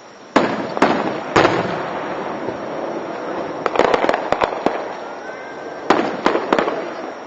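Fireworks shells bursting, heard through a car dashcam's microphone: three bangs in the first second and a half, a quick run of cracks around four seconds in, and three more bangs near the end.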